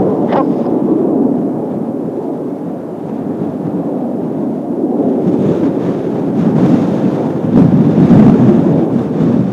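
Jet roar of Blue Impulse Kawasaki T-4 trainers' twin turbofans, heard as a steady low rumble at a distance, swelling louder near the end, mixed with wind on the microphone.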